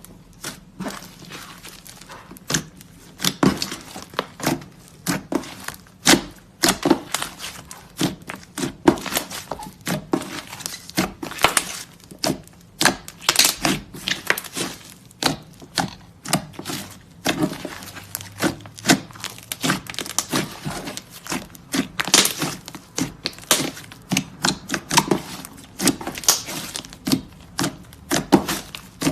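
Clay slime being squeezed, pressed and stretched by hand, giving a dense run of irregular sticky clicks and crackling pops, several a second.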